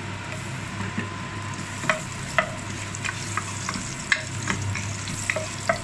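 Sliced ginger sizzling in hot oil in a ceramic-coated pot, stirred with a wooden spatula that taps against the pot a few times.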